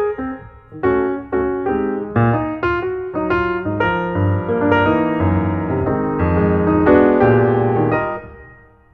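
Background piano music: single struck notes and short phrases building into held chords, then fading away near the end.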